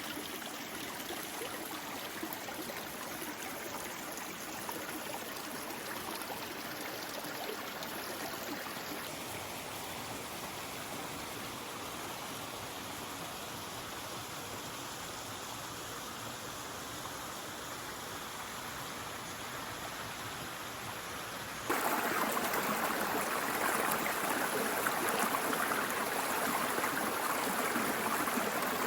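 Creek water rushing and trickling steadily over rocks. About three-quarters of the way through it suddenly becomes louder and fuller.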